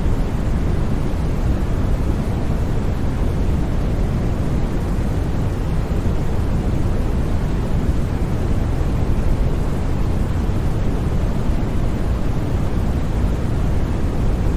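Constant white-noise sleep sound: an even, unbroken rush weighted toward the low end, deep and rumbling rather than hissy, with no changes in level.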